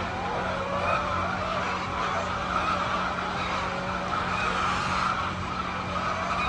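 A flock of chickens calling and clucking together, many wavering calls overlapping continuously, over a steady low hum.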